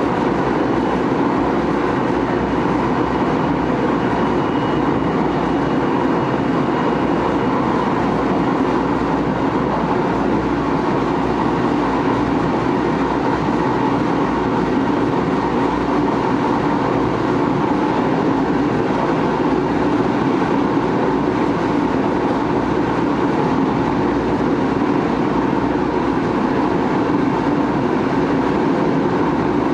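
Tokyo Metro 6000-series electric train running at steady speed between stations: continuous wheel and track rumble with no change in pitch.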